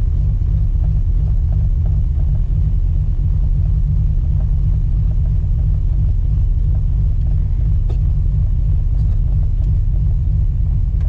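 Fox-body Mustang GT's 5.0 V8 idling with a steady, deep rumble, heard from inside the cabin.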